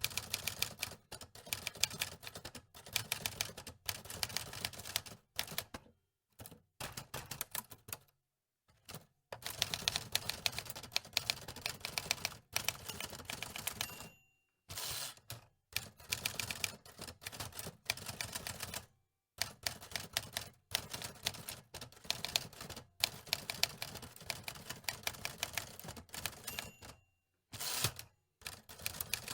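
Antique manual typewriter being typed on: quick runs of key clacks, broken by short pauses every second or few.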